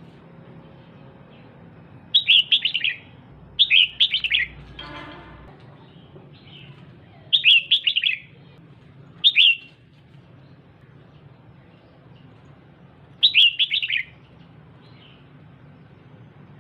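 Female red-whiskered bulbul calling: five short bursts of rapid chirps, each well under a second, spaced a few seconds apart.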